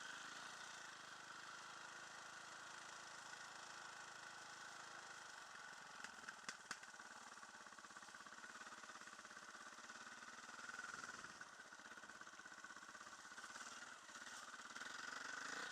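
Enduro dirt bike engine running faintly and steadily, with three or four sharp clicks about six seconds in.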